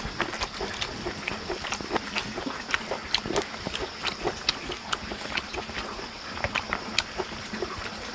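People eating close to the microphone: irregular soft clicks and smacks of chewing and lip smacking. A steady high-pitched hum runs behind it.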